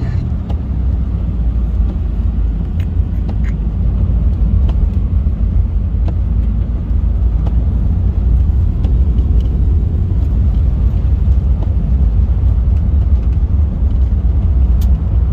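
Four-wheel-drive SUV driving on a snow-covered highway: a steady low road rumble of engine and tyres, with a few faint ticks.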